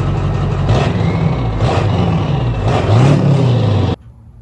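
Ford 7.3 Powerstroke turbo-diesel V8 revving up and back down about three times through a custom boom tube exhaust, loud, cutting in and out suddenly.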